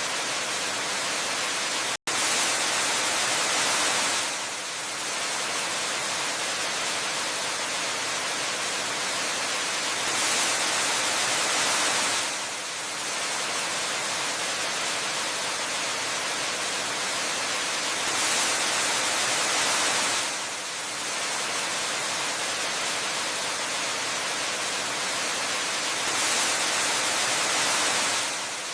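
Waterfall rushing in a steady, dense hiss of falling water. It swells louder for about two seconds at even intervals of roughly eight seconds, and cuts out for an instant about two seconds in.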